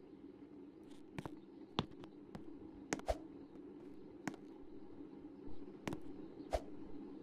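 Candy washing machine running: a steady motor hum with sharp clicks and knocks at irregular intervals as the drum turns.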